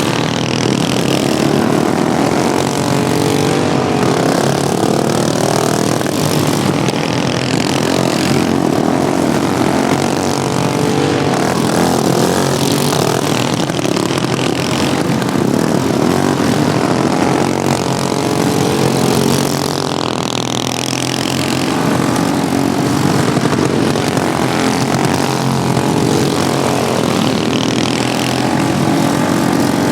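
Several modified Wheel Horse racing lawnmower engines running hard at once, their pitches rising and falling as they rev and ease off around the track.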